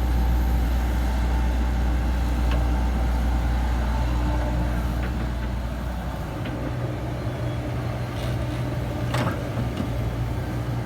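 Komatsu PC70-8 excavator's diesel engine running steadily, its low note shifting about halfway through, with a few short clanks in the second half.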